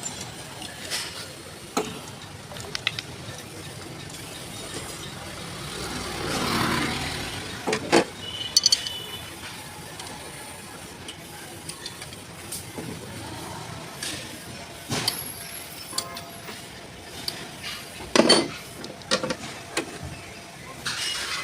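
Scattered metallic clinks and knocks of tools and engine parts being handled during diesel engine assembly, with a louder knock near the end. A swell of noise rises and fades about six seconds in.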